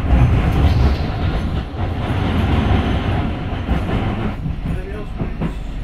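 Tram running along its rails, heard from inside the car: a steady low rumble and rattle of wheels on track, easing slightly about four seconds in.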